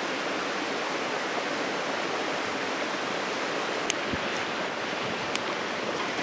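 Steady rushing outdoor noise with a few sharp clicks about four and five and a half seconds in.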